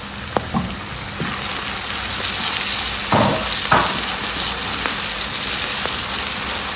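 Chopped onions and blended pepper frying in hot oil with bay leaf and curry powder. The sizzle grows louder after about a second, with a few light clicks of a spoon early on and two heavier stirring scrapes a little past three seconds in.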